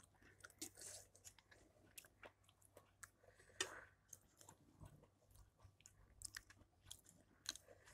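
Faint close-up chewing of rice and curry eaten by hand, with scattered soft clicks and smacks; the loudest comes about three and a half seconds in. Fingers mix the rice on a stainless steel plate.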